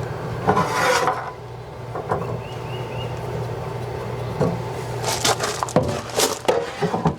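Hand tools and small parts knocking, clicking and rubbing during work on a water heater fitting, with a louder stretch of rustling about half a second in and a quick run of clicks and knocks in the last two seconds, over a steady low hum.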